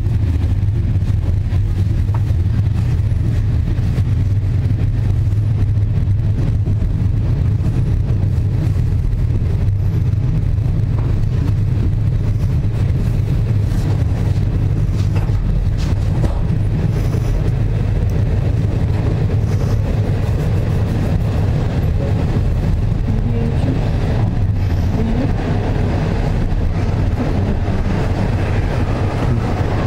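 Passenger train running, heard from on board: a steady low rumble of wheels on rails.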